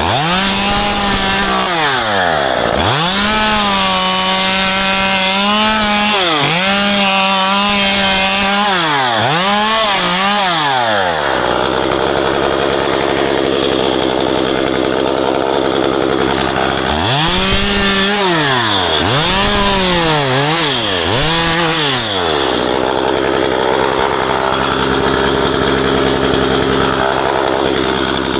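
Gas chainsaw revved to full throttle in repeated bursts, its pitch climbing, holding high and dropping back each time. It falls to a steady lower idle for a few seconds near the middle and again toward the end.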